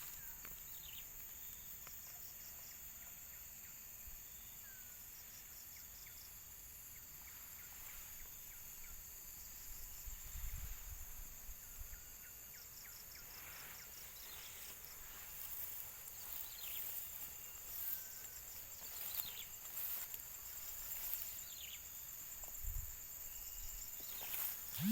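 Outdoor field ambience: a steady high-pitched insect chorus with a pulsing insect call running through it, and occasional short chirps.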